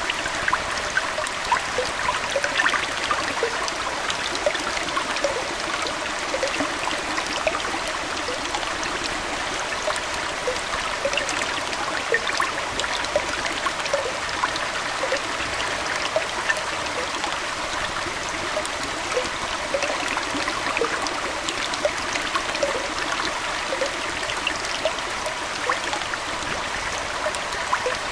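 Aquarium water trickling and flowing steadily, with many small bubbling plops scattered all through.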